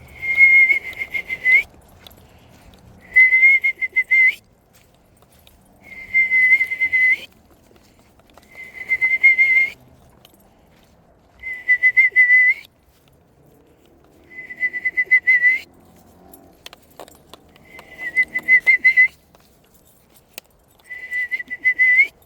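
A person whistling an imitation of a screech owl's call eight times. Each call is a wavering, high, single-pitched whistle of about a second and a half, and some turn slightly upward at the end. The calls come roughly every three seconds.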